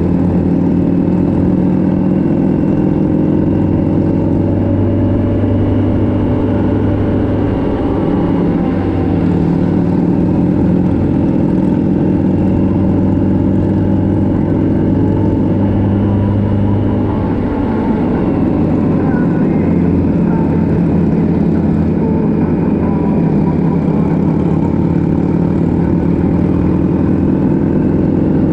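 A motorcycle engine running at a steady cruise, its note shifting slightly with the throttle and easing off briefly about two-thirds through, over a steady rush of wind noise.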